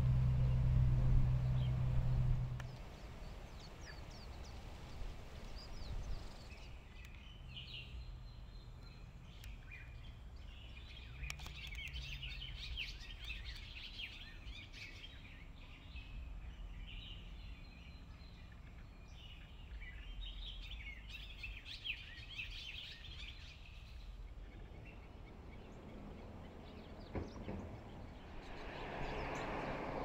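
Birds chirping and singing in many short, busy calls over a quiet steady background, starting about seven seconds in and dying away near the end. A low hum fades out in the first couple of seconds.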